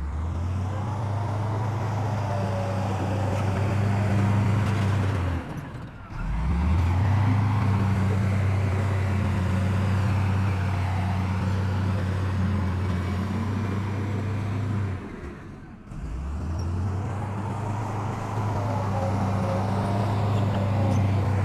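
Heavy diesel engine of earthmoving machinery running steadily with a low drone. It drops away briefly twice, about six seconds in and again near sixteen seconds, then picks up again.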